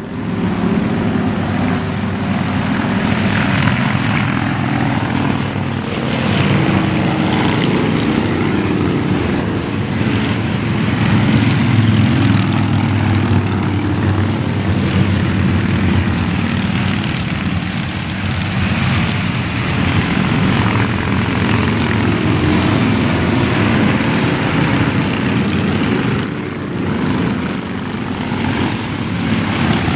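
Many motorcycle engines droning together as a continuous stream of bikes rides past on the interstate, the mass of engine notes swelling and easing slightly but never breaking.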